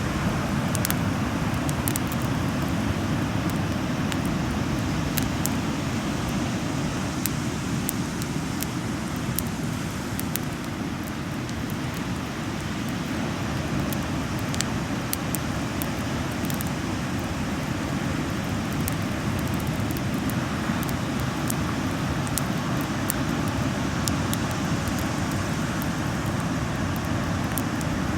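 Bonfire crackling, with frequent sharp pops and snaps over a steady rushing noise.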